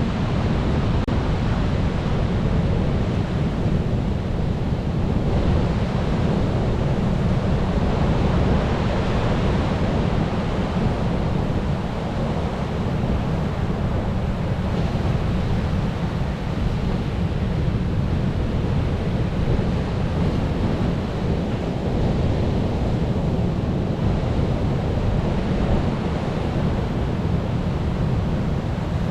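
Ocean surf washing continuously, a steady rushing noise with a deep rumble and no single wave standing out.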